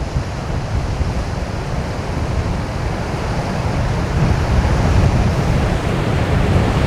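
Strong wind buffeting the microphone with a heavy low rumble, over the steady rush of rough surf breaking. It grows a little louder toward the end.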